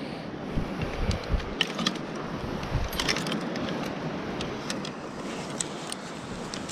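Wind buffeting the microphone in gusts over a steady wash of sea noise, with scattered small clicks and light rattles.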